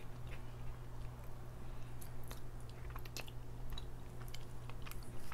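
A person chewing a spoonful of red beans and rice close to the microphone, with small wet mouth clicks scattered through it, over a steady low hum.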